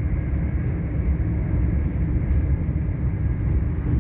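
Inside a moving express passenger train: the carriage's steady low rumble of wheels running on the track at speed.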